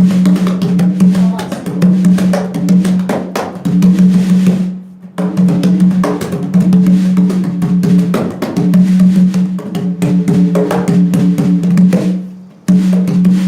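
Conga drum struck by hand in a rhythmic practice pattern over a steady low keyboard bass note. The playing stops briefly twice, about five seconds in and near the end.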